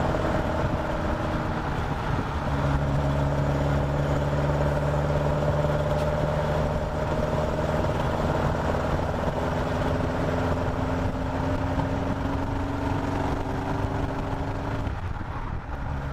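Caterham Super Seven's carburetted engine running steadily, with no backfiring; its note drops about two and a half seconds in and then climbs slowly.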